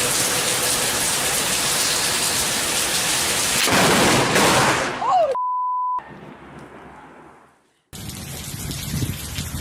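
Heavy rain pouring down hard, growing louder for a moment about four seconds in. Then it cuts to a steady beep tone for about half a second, followed by a quieter stretch that fades almost to silence before rain noise starts again abruptly.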